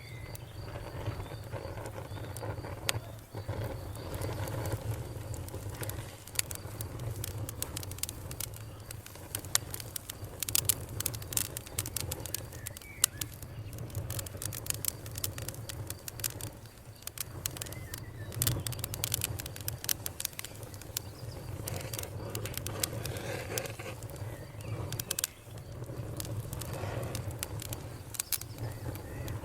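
Campfire crackling, with frequent sharp pops and snaps over a low steady rumble.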